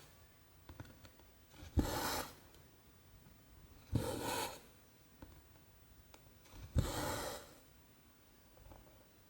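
Cotton thread pulled through 14-count cross-stitch canvas three times, each stroke a short rasping swish with a sharp start, about two to three seconds apart.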